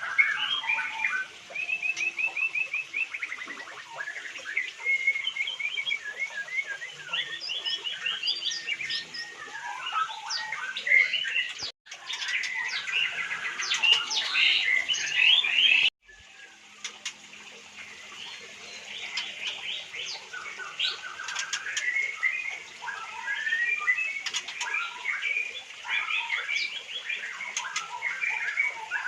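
White-rumped shamas (murai batu) singing and calling: a dense, varied run of whistles, trills and chirps, cut off abruptly twice for a moment, about 12 and 16 seconds in.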